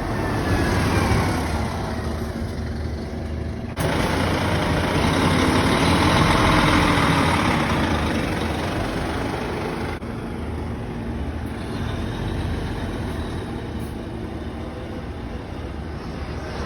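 Highway bus diesel engine running at close range, its sound swelling louder for a few seconds in the middle as the bus pulls away, then settling. The sound changes abruptly twice.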